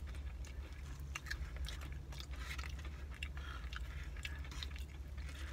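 Close-up chewing of a caramel pecan cinnamon roll: many small wet mouth clicks and light crunches, over a steady low hum.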